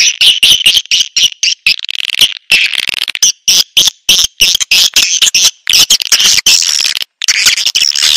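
Recorded swiftlet calls: a loud, rapid, high-pitched twittering chatter of chirps and clicks that keeps stopping and starting abruptly. This is a swiftlet lure sound ('suara tarik') played to attract swiftlets.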